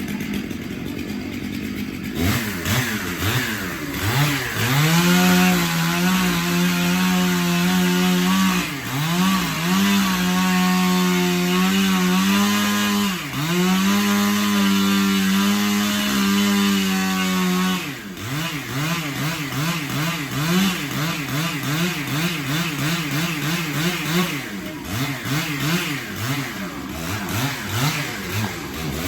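Chainsaw starting up about two seconds in, then held at high revs in long steady stretches broken by short dips in pitch. In the second half it revs up and down rapidly, over and over.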